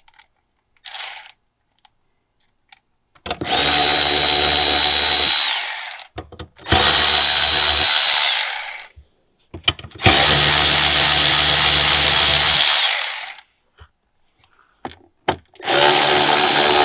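Electric impact wrench run in four bursts of two to three seconds each, hammering 8 mm bolts loose. A short blip of the tool comes about a second in.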